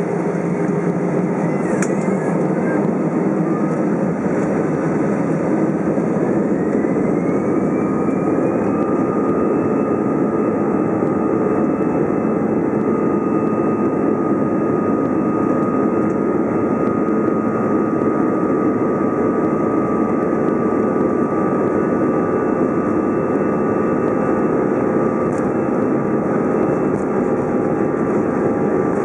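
Airbus A320-216's CFM56 turbofan engines heard from inside the cabin, spooling up to take-off thrust: a loud steady rush with a whine that rises in pitch, then holds as a steady high whine from about nine seconds in.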